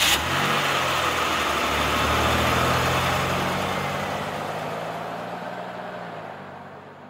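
Car engine settling into a steady idle just after starting, then fading away gradually over the last few seconds.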